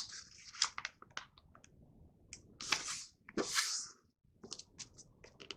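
A sheet of printer paper being folded and creased by hand: scattered light crinkles and taps, with two short rustling swipes about three seconds in.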